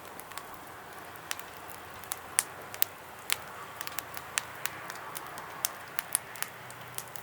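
Wood campfire crackling, with irregular sharp pops a few times a second over a faint steady hiss.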